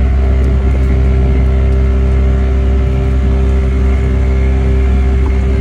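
Boat engine running steadily at a constant speed: a loud, even low drone.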